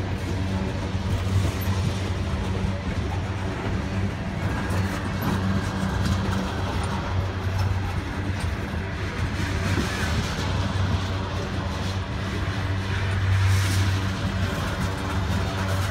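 Norfolk Southern diesel freight train running by: a steady low engine drone over constant rolling rail noise.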